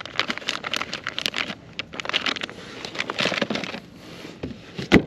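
Crinkling and rustling of plastic and tackle being handled while a soft-plastic paddle-tail lure is rigged on a jig head: irregular crackly clicks, with one sharp knock near the end.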